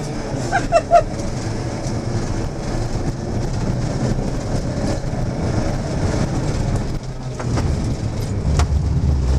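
Fiat Seicento rally car's engine heard from inside the cabin, running hard under load. There are a few short high chirps about a second in, and about two seconds before the end the engine note drops lower and grows louder.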